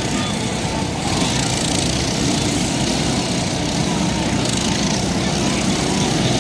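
Small mini bike engines running during a race, a steady mix of engine noise with no single bike standing out.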